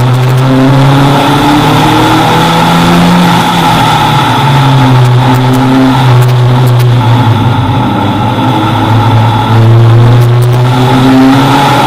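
Toyota Celica race car engine running hard under acceleration on track. The revs climb, drop sharply about four seconds in and again about ten seconds in, then climb again each time.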